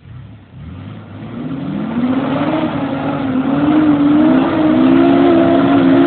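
Truck engine revving up: it climbs over the first two seconds, then holds at high revs with a slightly wavering pitch.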